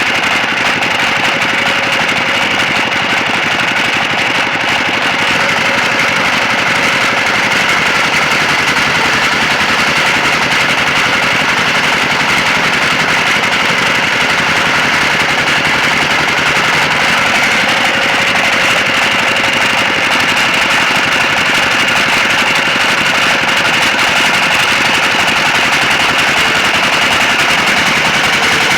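Sawmill machinery running continuously: a steady mechanical whine with a rapid, even rattle underneath.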